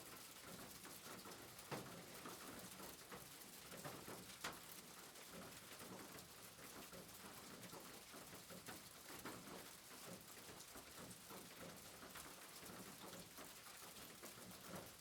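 Faint, steady rain patter with scattered drops ticking, a few of them sharper and louder.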